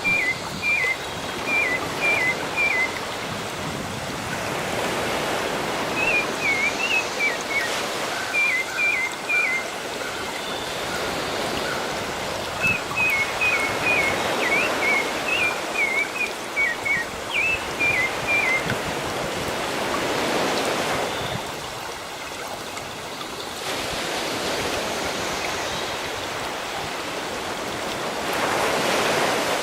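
Ocean waves washing in and drawing back, swelling every several seconds. A small bird sings short chirps in quick repeated runs, three bursts over the first two-thirds, then stops.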